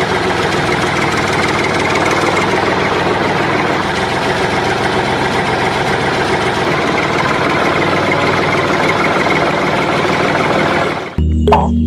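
An engine running steadily with a fast, even rattle, cutting off suddenly near the end.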